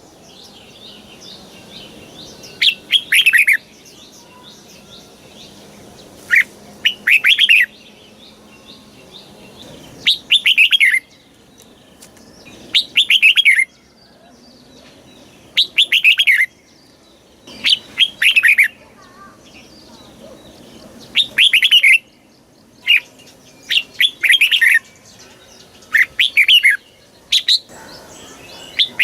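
Red-whiskered bulbul singing: short, clear whistled phrases of quick falling notes, repeated about every two to three seconds.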